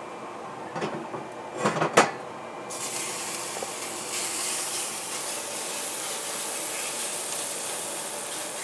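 A few clacks of utensils against a pan, then raw chicken pieces go into hot oil about two and a half seconds in and start sizzling steadily.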